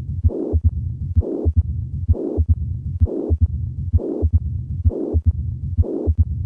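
Heart sounds with a murmur in every cycle, about 65 beats a minute, as a teaching auscultation recording of mitral valve disease.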